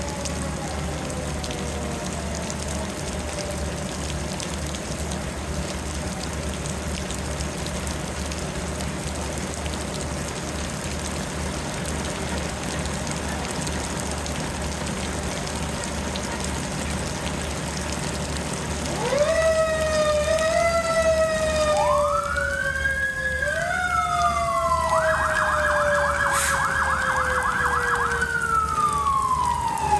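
Fire engine sirens over steady rain and a running engine: a siren tone slowly winds down at first, then about two-thirds of the way through an electronic siren starts with a rising wail, changes to short up-and-down sweeps and a rapid warble, and winds down near the end.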